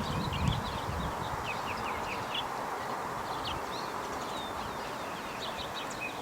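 Small birds chirping: many short, overlapping chirps, over a steady background hiss.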